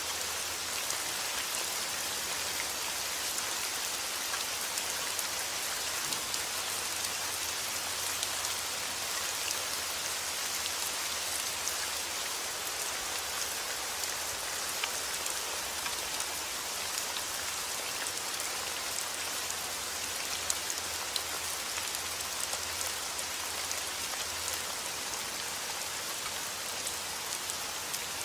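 Steady heavy rain falling outdoors, a constant hiss of drops with many small ticks of drops striking surfaces.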